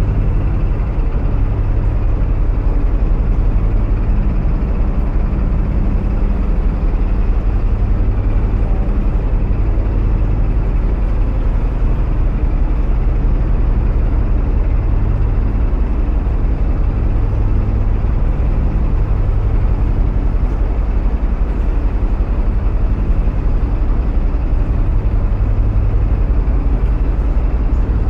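A narrowboat's diesel engine running steadily at cruising speed, a fast, even low thudding.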